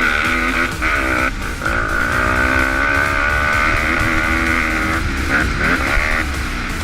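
Pit bike engines revving up and down, rising and falling in pitch, mixed with background music.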